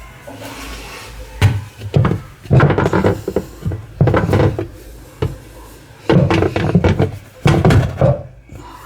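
Washing machine impeller blade (pulsator) being pushed and knocked down onto its shaft: a run of irregular clunks and knocks.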